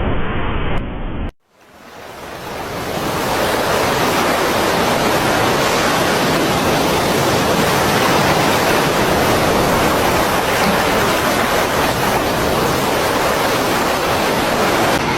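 Steady, loud roar of rushing water or heavy surf. About a second and a half in, the sound cuts briefly to near silence, then a brighter roar swells up over a couple of seconds and holds steady.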